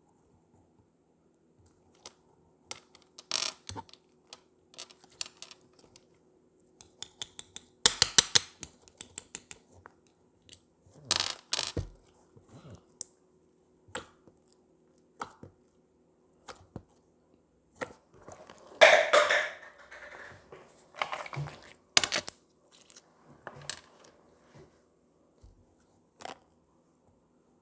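Slime being handled by hand: scattered sticky clicks, pops and crackles, with several louder crackling squishes, over a faint steady hum.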